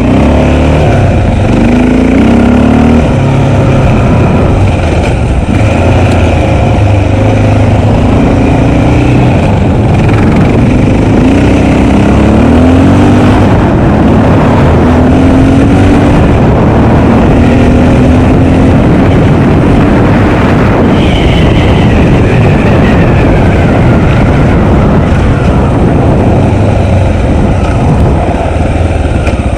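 Honda XR650L single-cylinder four-stroke dual-sport motorcycle engine running under way, its pitch rising again and again as the throttle is opened, with a heavy rumble of wind noise.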